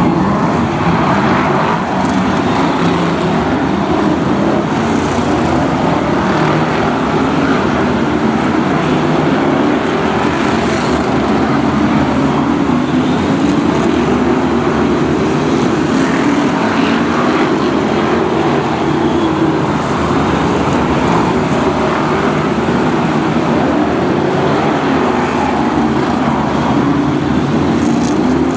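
A pack of BriscA F1 stock cars' V8 engines running hard together as they race, a steady, dense engine din with no letup.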